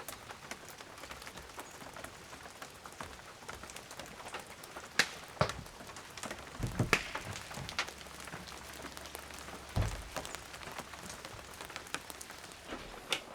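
Steady rain pattering, a dense spray of small drop ticks, with a few louder drips and knocks scattered through it.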